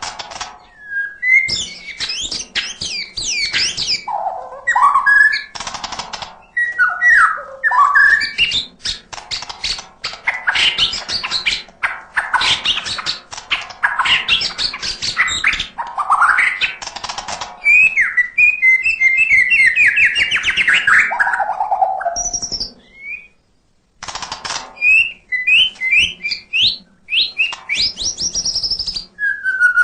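White-rumped shama (murai batu) singing continuously, its song full of borrowed phrases (isian). It is a long run of varied loud whistles, rising and falling phrases and fast chattering trills, with a short break about three-quarters of the way through.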